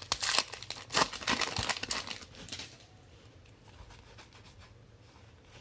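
Plastic trading-card pack wrapper crinkling and tearing open by hand, a dense crackle in the first two and a half seconds that dies down after that.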